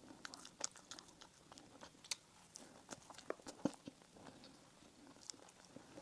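Close-miked chewing and biting of soft bakery bread and pastry: faint, irregular small clicks and crackles from the mouth, with a few sharper pops in the middle.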